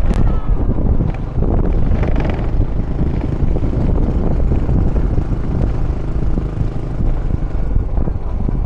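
Steady rushing noise of a moving vehicle ride, with wind buffeting the microphone and the low rumble of engine and road underneath.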